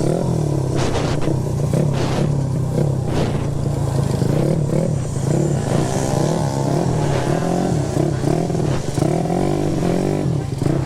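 Motorcycle engine running while riding, its pitch rising and falling with the throttle, with short sharp clicks or knocks every second or so.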